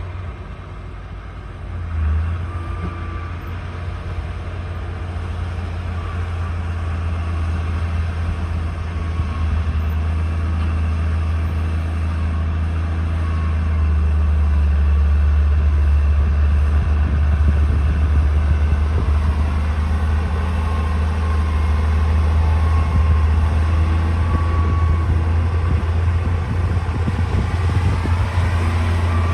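Heavy diesel engine of a D60 crawler bulldozer running steadily with a deep drone. It grows louder about halfway through.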